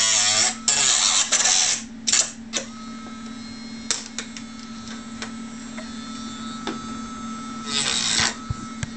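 Dremel rotary tool cutting into the RC jet's airframe for about two seconds, cutting out the nose-gear opening, with another short burst of cutting near the end. In between, the tool keeps running with lighter contact, with scattered clicks and knocks.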